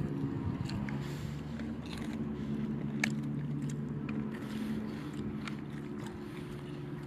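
People biting and chewing food, with scattered short crunchy clicks, over a steady low hum.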